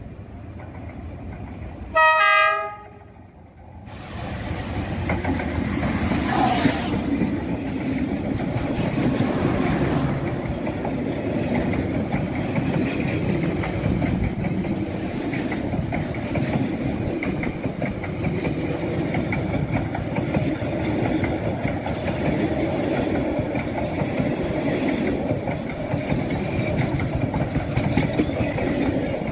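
A short, loud blast of a D19E diesel-electric locomotive's horn about two seconds in, cut off sharply. From about four seconds on, a train passes close by: a steady loud rumble with wheels clattering over the rail joints.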